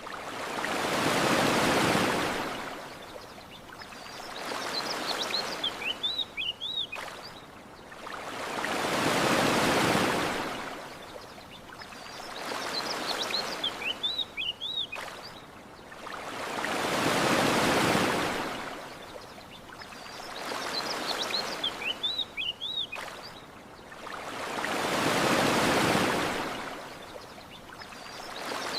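Ocean waves washing onto a shore in slow, even swells, one about every eight seconds, each rising and then fading away, with a smaller wash between them. Short high bird chirps come in the lulls between the waves.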